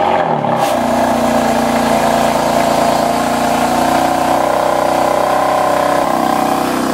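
BMW M4's S55 twin-turbo straight-six with catless downpipes just fired on a cold start: a flare that falls away within the first second, settling into a steady fast cold-start idle from the quad exhaust.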